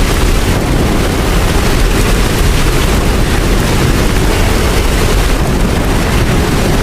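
Steady heavy rain with a deep rumble underneath, loud and unbroken.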